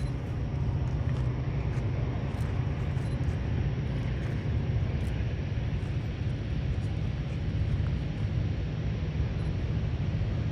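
A train rolling by with a steady low rumble.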